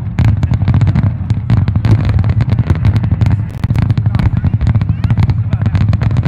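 Fireworks display: aerial shells bursting in a dense, rapid run of bangs and crackles, many a second, over a constant low rumble of booms.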